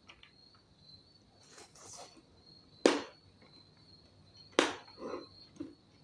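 Close-miked eating sounds: two sharp clicks or crunches about a second and a half apart, with softer chewing and rustling in between, over a steady high-pitched tone.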